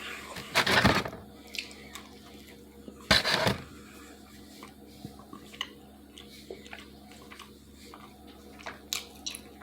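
Chewing pizza close to the microphone, with scattered soft mouth clicks and two brief louder noises in the first few seconds.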